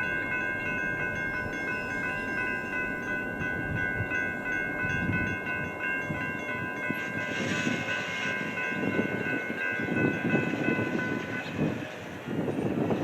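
Freight diesel locomotive's multi-chime air horn sounding one long held chord that cuts off about two seconds before the end, over the rumble of the train.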